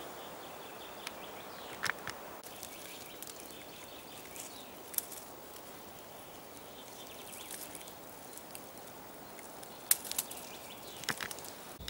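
Quiet forest ambience: a faint steady hiss with a few scattered soft clicks and rustles, and faint high chirps in the background.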